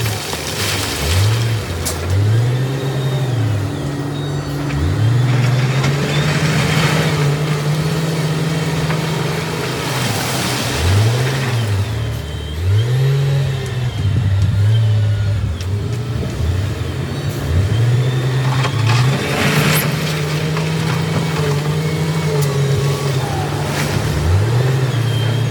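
Heavy earthmoving machine's diesel engine working hard, its revs repeatedly sagging under load and climbing back, with several bursts of noise over it.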